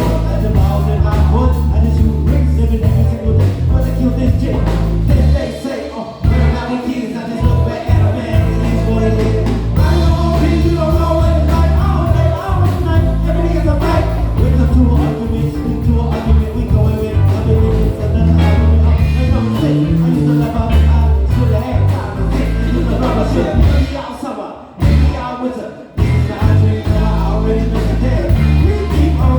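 Live band playing a bass-heavy groove with electric bass, drums and keys, and singing over it. The band breaks off briefly twice, about six seconds in and about twenty-five seconds in, then comes back in.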